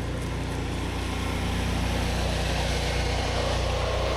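Pressure washer's engine running steadily under the hiss of water spraying onto concrete; the spray gets a little louder about two seconds in.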